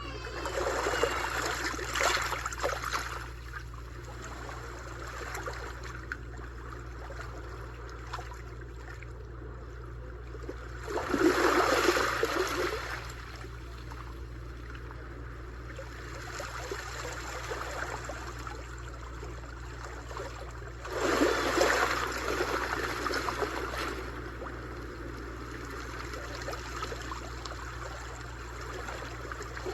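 Sea waves washing onto a beach, swelling into a louder crash about every ten seconds, with a steady lower wash between.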